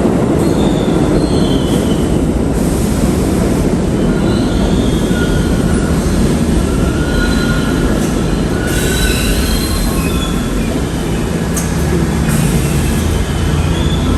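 New York City subway train running through a station: a loud, steady rumble of wheels on rail, with high, wavering wheel squeal coming and going.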